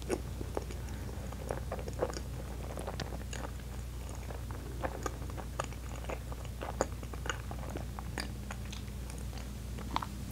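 Close-miked chewing of a mouthful of soft, cream-filled Baumkuchen cake: irregular wet mouth clicks and smacks.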